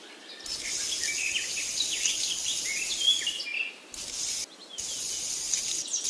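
Birds chirping in many short calls over a steady high insect trill, the sound cutting out abruptly for a moment twice near the middle.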